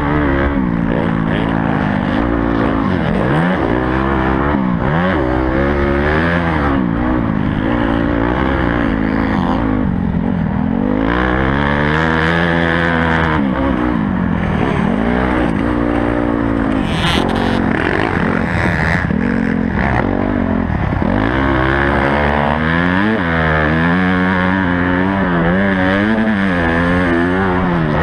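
Honda CRF250 motocross bike engine revving hard and easing off again and again, its pitch climbing and dropping every second or two through gear changes and throttle.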